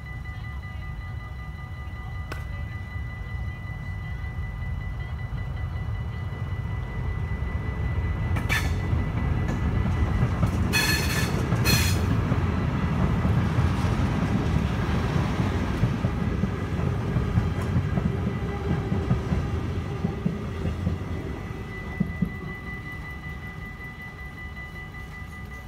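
Level-crossing warning bells ringing steadily while a diesel-hauled freight train of tank wagons rolls over the crossing. Its rumble builds through the middle and fades near the end. A few brief shrill blasts sound near the middle, and a few wheel knocks come toward the end.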